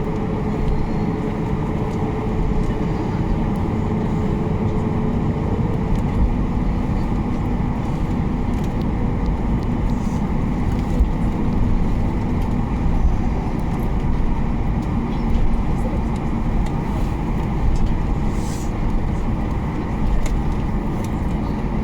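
Cabin noise of a Ryanair Boeing 737 with its engines running before takeoff: a steady low rumble with a constant hum. A higher tone in the hum stops about six seconds in.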